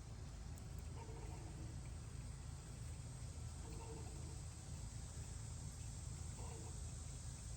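Steady low hum and faint hiss, with three brief faint pitched sounds about one, four and six and a half seconds in.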